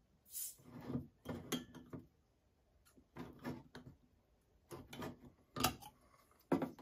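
Clicks, knocks and light scraping from a bottle of beer being handled and opened. The sounds come in several short bunches: about a second in, around three seconds, and near the end.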